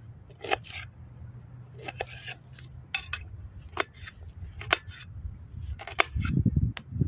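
Sharp clicks and taps from cooking utensils, about one a second, over a steady low hum. About six seconds in, a loud low rumble comes in.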